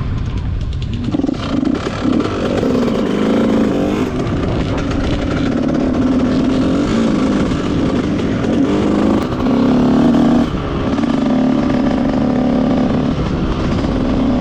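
Dirt bike engine running, its pitch rising and falling repeatedly as the throttle opens and closes.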